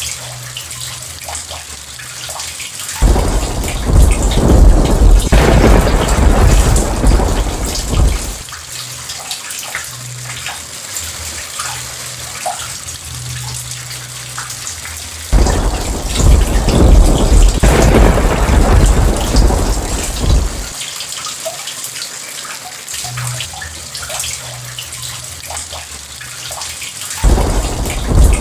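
Heavy rain falling steadily, with three rolls of thunder that each break in suddenly and rumble for about five seconds, the last one starting near the end.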